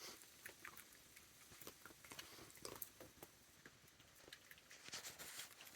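Near silence with faint, scattered small clicks and crunches, a few more near the end: raccoons cracking and chewing peanuts.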